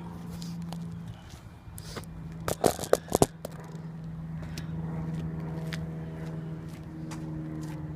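Infiniti M45's 4.5-litre V8 idling steadily through Flowmaster 40 series mufflers, a low even exhaust hum. A few sharp clicks and knocks come about two and a half to three seconds in.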